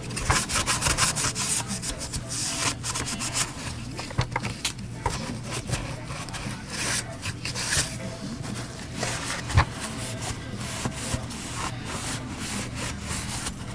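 Rapid, irregular scraping and rubbing strokes with scattered clicks: parts of a central-vacuum power brush head being scrubbed and scraped clean by hand.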